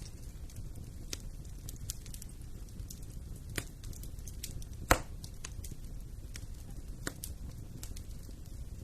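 Wood fire burning in a fireplace: a steady low rumble with scattered crackles and pops, one sharp loud pop about five seconds in.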